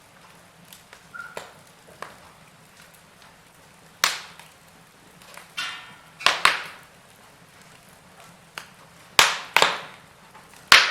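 Wood fire burning in a fireplace, crackling with scattered sharp pops and snaps, the loudest clustered in the second half, over a faint steady hiss.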